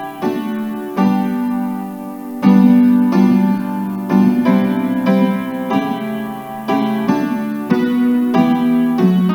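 Keyboard playing a hymn in slow, sustained chords that change about once a second.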